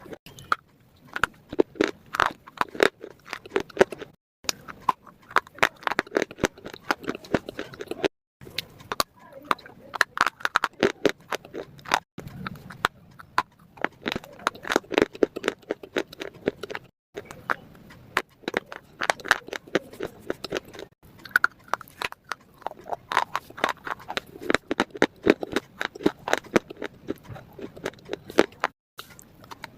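Close-up chewing of crunchy food: fast, crackly crunching bites, broken by brief sudden gaps every four to five seconds.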